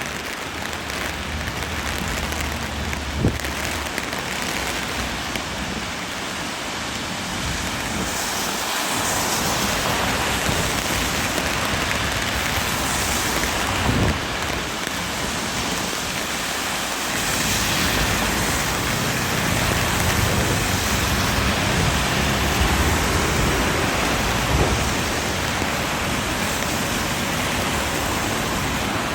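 Heavy, steady rain from a passing typhoon, with a low rumble and the occasional swish of vehicles on the wet road. A few brief knocks stand out.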